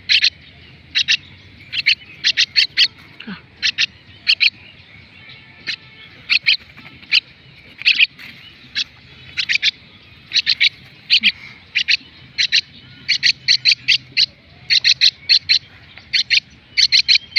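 Common myna (shalik) chicks calling loudly: short, sharp, high-pitched cries, often in quick runs of two to four, repeated over and over. These are typical hand-fed chicks' begging calls at feeding time.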